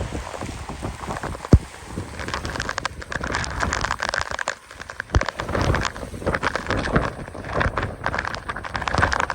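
Typhoon wind and rain on the microphone: a rough rushing noise full of rapid crackling rain hits and buffeting knocks, swelling and easing with the gusts.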